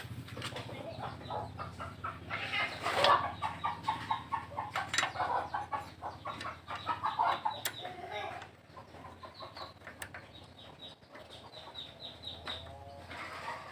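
Chickens clucking in quick series of rapid clucks, trailing off after the middle, with a few sharp clicks among them.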